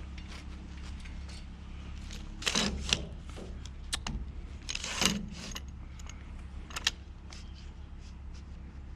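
Discarded items being handled and rummaged through, with a few short rattling clatters and clicks, the sharpest about two and a half and five seconds in, over a steady low hum.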